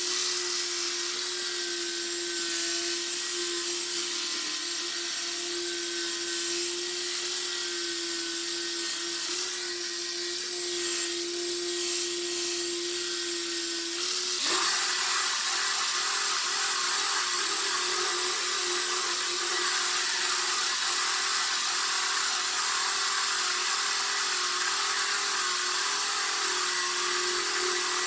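Power sander running steadily with a constant motor whine, used in sanding a car body panel. About halfway through it gets louder and hissier.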